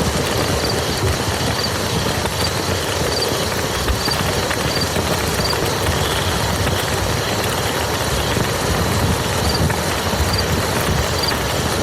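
Steady rain falling onto a muddy field, an even, unbroken hiss of drops. A faint high chirp repeats about every half second to second behind it.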